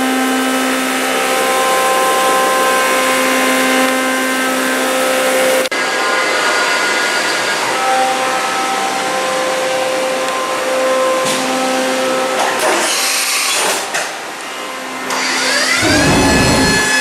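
A motor runs with a steady, pitched hum throughout, shifting slightly at a click about six seconds in. Near the end comes a brief, louder, low sound that bends in pitch.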